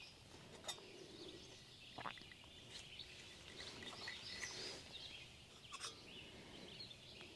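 Faint birdsong, scattered chirps and short phrases from several birds, with a few light clicks about a second in, around two seconds and near six seconds.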